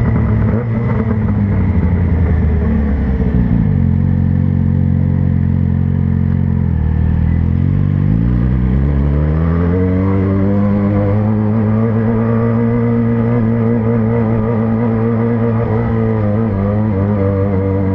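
Yamaha XJ6N's 600cc inline-four engine heard from the rider's seat while riding in slow traffic: the engine note drops off about three seconds in, idles low for a few seconds, then rises as the bike pulls away and holds a steady cruising pitch, with a brief dip near the end.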